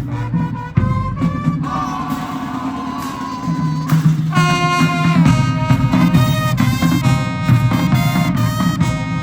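High school marching band playing its field show music, brass carrying sustained chords over low band parts, swelling louder and fuller about four seconds in.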